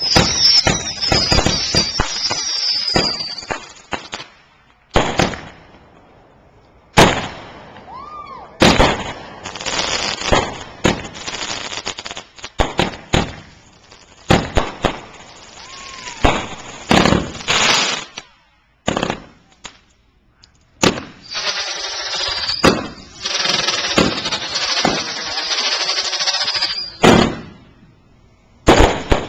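Fireworks going off in rapid succession: many sharp bangs, long stretches of dense crackling and hissing, and a few short whistles, with a brief lull a little past the middle.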